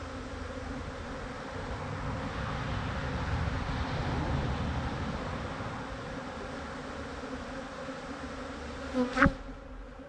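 Dense buzzing of many honeybees from an opened, aggressive colony, swelling for a few seconds and then easing off. One sharp knock near the end.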